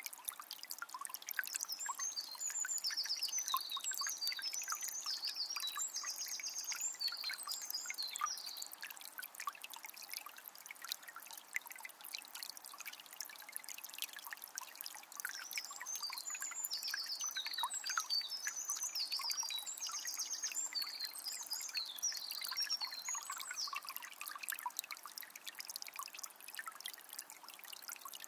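Calm forest river flowing with a steady trickling, babbling sound. A songbird sings two long, high, varied phrases over it, one near the start and one about halfway through.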